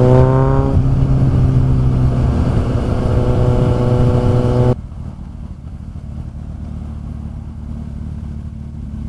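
Kawasaki Z800 inline-four riding with the exhaust's dB killer removed: the engine note rises over about the first second, holds a loud steady pitch, then drops abruptly to a much quieter low rumble a little under halfway through.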